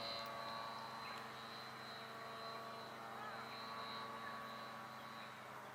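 Radio-controlled aerobatic pattern airplane's motor running steadily at a distance, a faint drone with a thin high whine. A bird chirps briefly about three seconds in.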